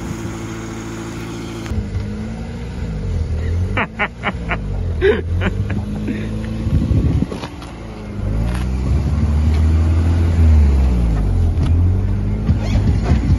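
Lowered BMW E36 sedan driving slowly past at low revs, its engine note rising and falling as the throttle is worked, with a deep exhaust drone swelling from about eight seconds in.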